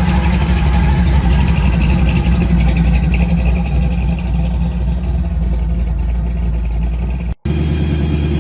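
Loud, steady low rumble of a muscle car's engine running close by. The sound cuts out for an instant near the end and picks up again with a similar engine rumble.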